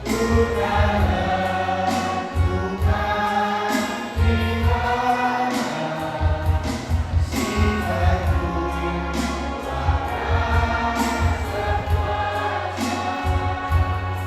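A group of voices singing a song together over music with a steady, pulsing low bass.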